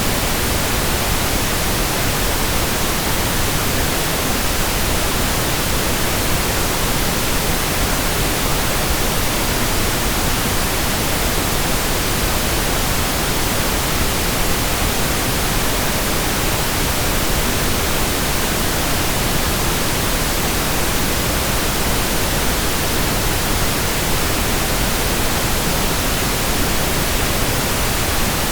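Steady, unchanging pink noise: an even hiss across the whole range, weighted toward the low end, with no events in it.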